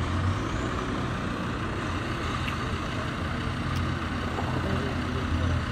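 Off-road 4x4's engine running, a steady low rumble with no sharp changes.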